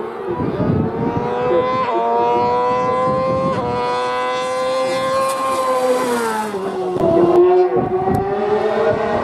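Hillclimb race car engine pulling hard under full throttle. Its note climbs steadily with brief breaks about two and three and a half seconds in, like up-shifts, then drops in pitch around six to seven seconds in before climbing again.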